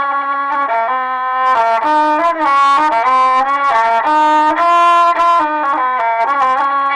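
Rababa, the Bedouin single-string bowed fiddle, playing a solo melody: one rich, nasal line of held notes that step up and down.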